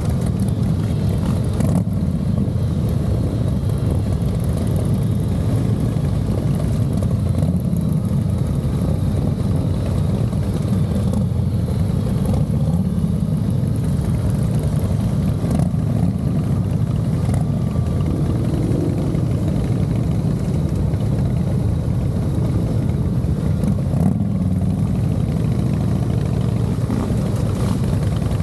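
Harley-Davidson Fat Boy's V-twin engine running steadily at cruising speed, picked up close to the engine from the frame, under a low, even rumble of wind and road noise.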